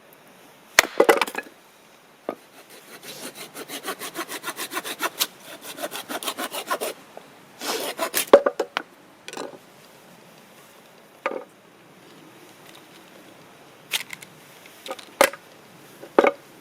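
Hand saw cutting through wood in a quick run of back-and-forth strokes, with a shorter burst of sawing after it, and a few separate knocks of wood pieces being handled.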